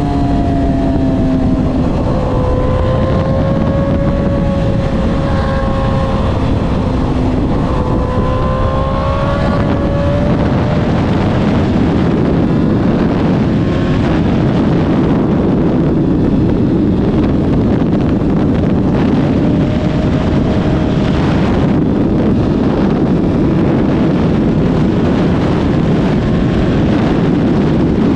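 A vehicle riding at speed, with steady heavy wind noise on the microphone. An engine note rises and falls through the first ten seconds or so.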